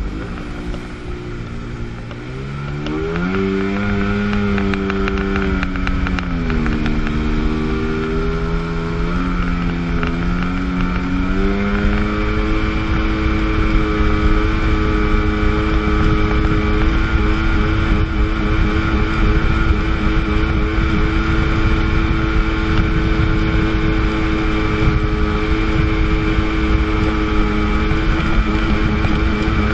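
A 1997 Sea-Doo GTS's 720 cc two-stroke twin engine running under way on the water. It is throttled up a few seconds in, eases off briefly, picks up again, then holds a steady cruising pitch, with a rush of wind and water noise underneath.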